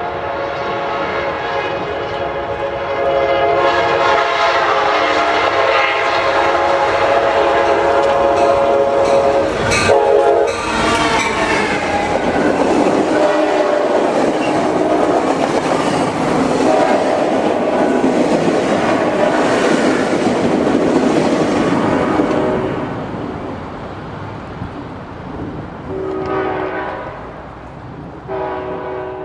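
Sounder commuter train's locomotive horn blowing a long sounding while the train passes, with wheels clattering over the rails. The horn gives two shorter blasts near the end.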